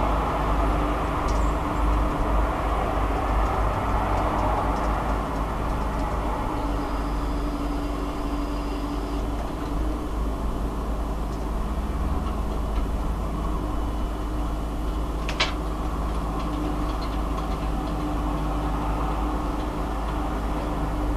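Steady low droning hum of unknown origin, the 'strange sound', with a few faint held tones over a dense rumble, picked up by a mobile phone's microphone held out of a window. A single sharp click about 15 seconds in.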